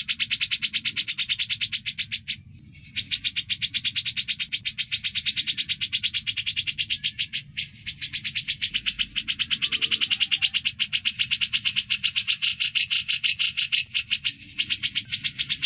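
A songbird on a tutor recording, singing a long, fast, even trill of sharp chirps, broken by three short pauses.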